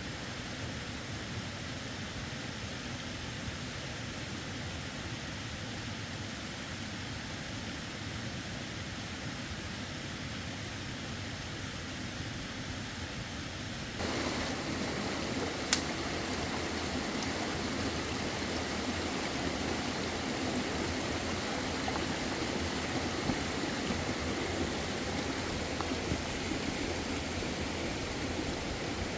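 Steady rush of running water from a stream. About halfway through it becomes abruptly louder and fuller, and a single sharp click comes soon after.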